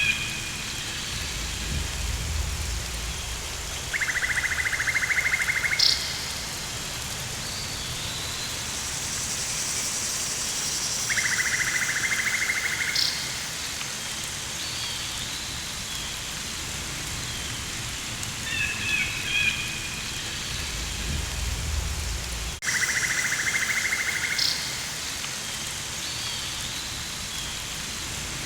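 Rainforest ambience: steady rain with birds chirping. A buzzing trill about two seconds long comes three times, and there are a couple of low rumbles.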